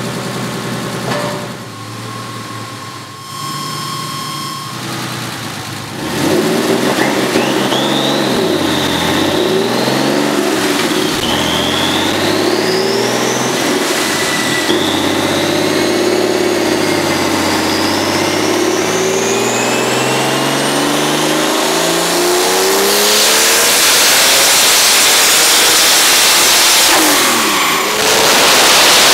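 Turbocharged air-cooled 3.3-litre twin-plug Porsche 911 flat-six running on a chassis dyno. It is fairly steady at first, then revs up and down several times. It then makes a long climbing pull with a high whine rising alongside, runs loud and flat-out, lifts briefly near the end and comes straight back on.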